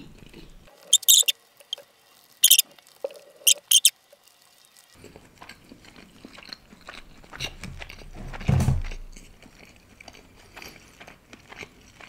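Close-miked chewing of a tandoori chicken leg: a series of sharp, wet mouth clicks and lip smacks in the first few seconds, then quieter chewing. A short dull thud comes about eight and a half seconds in.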